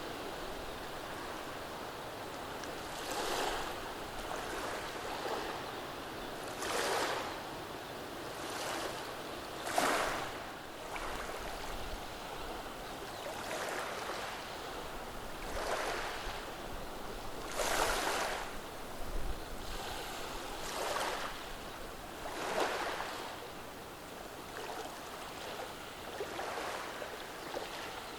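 Calm, gentle sea waves washing over a beach of rounded cobble stones: a steady hiss of water with a soft surge and wash every second or two as each small wave breaks on the stones and drains back.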